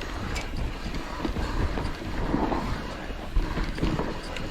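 Mountain bike rolling down a dirt trail: tyre rumble and wind buffeting the microphone, with scattered knocks and rattles from the bike over bumps.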